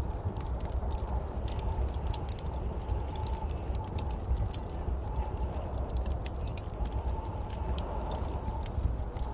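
Wood fire crackling in a fireplace: frequent, irregular sharp snaps and pops over a steady low rumble.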